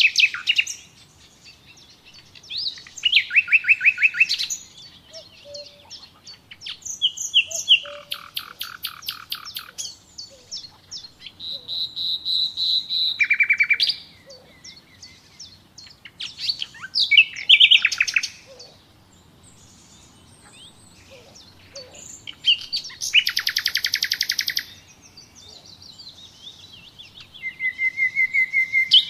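Songbirds singing in the wild: a series of song phrases every few seconds, each a run of fast trills and short whistled notes, with short pauses in between.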